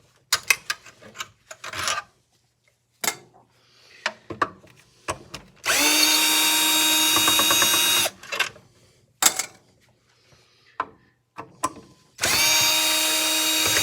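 Power drill with a bit extension running steadily twice, about two seconds each time, driving screws out of a miter saw's housing. Between the runs come clicks and knocks of metal parts and tools being handled.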